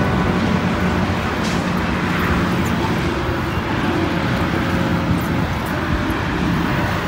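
Steady rush of wind against the microphone of a camera riding on a moving bicycle.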